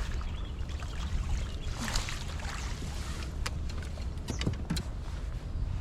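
Low steady rumble of wind and water around a fishing kayak, with scattered sharp clicks and knocks and a brief splash-like rush about two seconds in.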